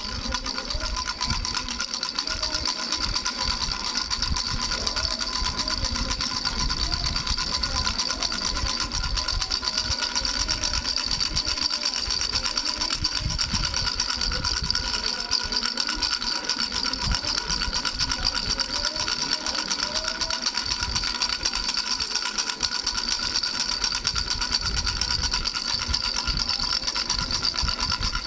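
A baby's bell rattle shaken without pause: a fast, even jingling of rapid clicks over steady ringing bell tones.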